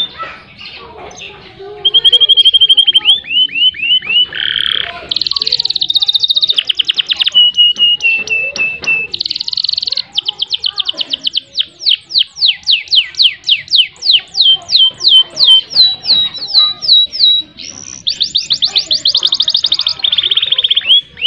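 Domestic canary singing a long song of fast rolls and trills, each phrase a rapid run of the same repeated note, with brief breaks between phrases.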